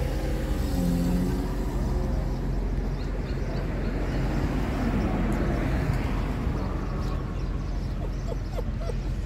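A motor vehicle engine idling nearby, a steady low hum.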